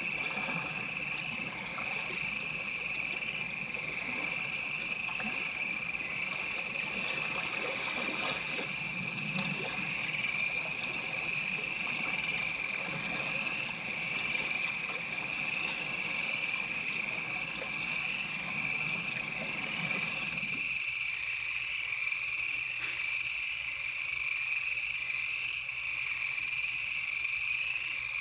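A steady, high-pitched chorus of calling animals, with a lower background noise that stops about two-thirds of the way through.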